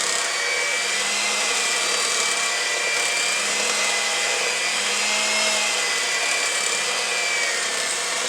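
Electric mixer running steadily, beating softened cream cheese and peanut butter together; its motor hum wavers slightly in pitch.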